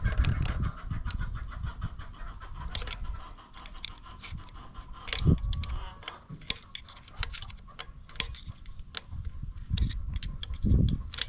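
Irregular sharp metallic clicks and scrapes of hand tools prying a retaining ring out of a log splitter's hydraulic cylinder end, with low handling thumps in between.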